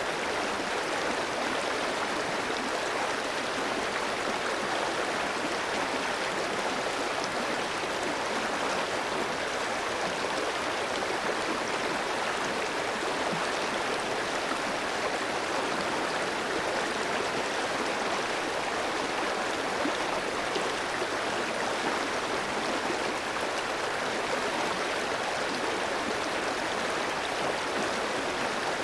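Clear mountain stream flowing over rocks: a steady, even rush of water with no change.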